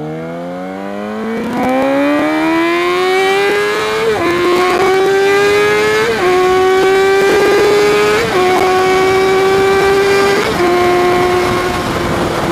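2015 Yamaha R6's inline four-cylinder engine accelerating under way. It climbs steadily in pitch for about four seconds, then shifts up four times about two seconds apart, the pitch dipping briefly at each shift.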